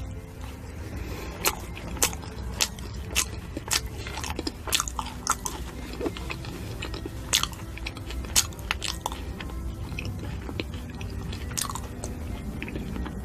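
Close-up chewing of crisp fruit, with a dozen or so sharp, irregular crunches.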